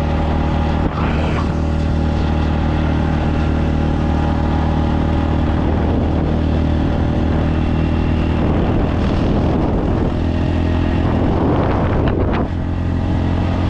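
Dirt bike engine running at a steady cruise on the road, its exhaust note holding an even pitch, with a brief dip in level near the end.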